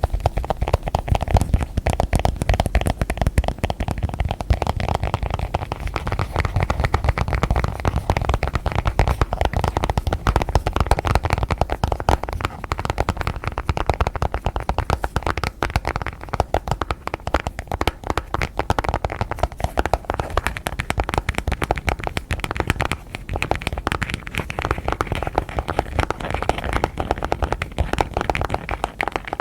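Fast, continuous fingertip tapping and scratching on objects for ASMR, a dense run of quick clicks that never lets up.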